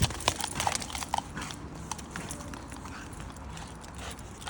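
A dog moving about, with a few brief squeaky whimpers in the first second or so among light clicking and scuffling sounds.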